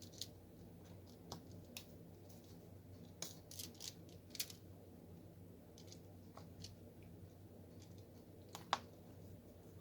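Faint, irregular clicks and taps of a diamond painting drill pen picking up drills and pressing them onto the canvas, with one sharper click near the end, over a low steady hum.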